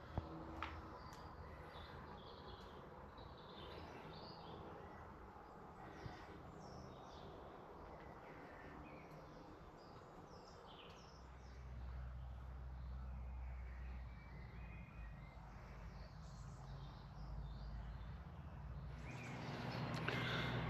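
Faint birdsong: several small birds giving short chirps and twitters, scattered through the whole stretch, with a low steady rumble joining about halfway through.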